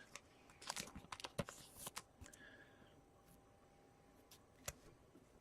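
Trading cards being handled: a few faint clicks and rustles of cards sliding and tapping, clustered about a second in, with one more light click near the end.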